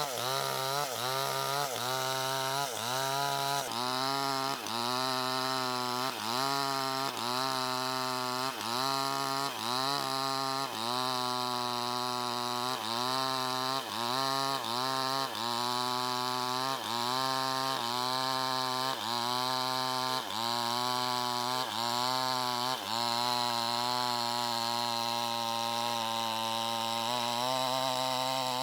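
Chainsaw engine running under load as it cuts, its pitch dipping and recovering over and over, about once a second.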